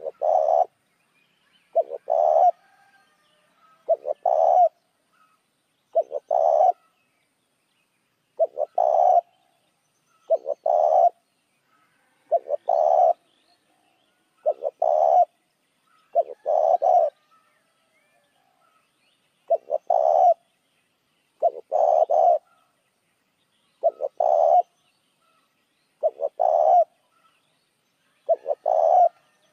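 Spotted dove cooing: the same short phrase, a quick note then a longer coo, repeated about every two seconds. This is a lure call used to draw wild doves in.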